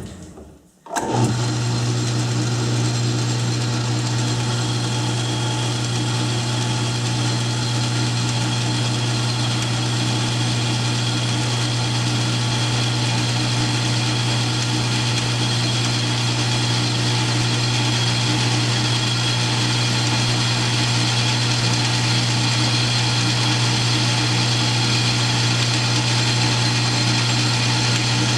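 South Bend metal lathe starting up about a second in, then running steadily with a constant motor hum while it takes the final light finishing cut on the steel pulley's outside diameter.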